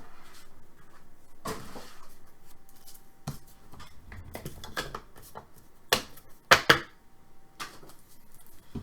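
Trading cards and plastic card spacers being handled and sorted on a table: rustling and light taps, with a few sharper clacks a little after six and a half seconds in.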